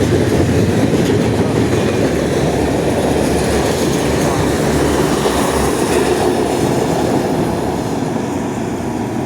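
Freight train cars rolling past close by: a steady, loud rumble of steel wheels on rail with clickety-clack over the joints, easing slightly near the end.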